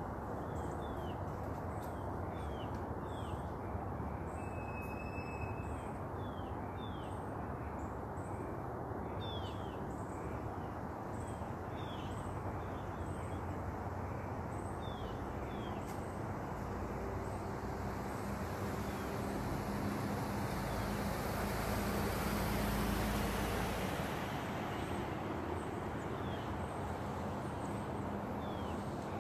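Outdoor morning ambience: a steady hum of distant traffic, with a bird repeating a short chirp about once a second. A vehicle passes, growing louder and peaking about three-quarters of the way through before fading.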